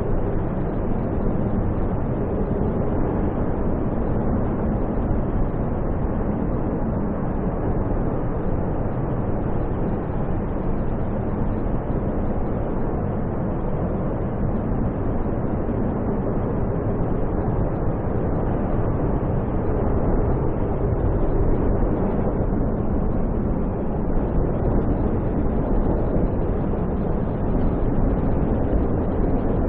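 Strong snowstorm wind, a steady low rumbling rush with no let-up, growing slightly louder near the end.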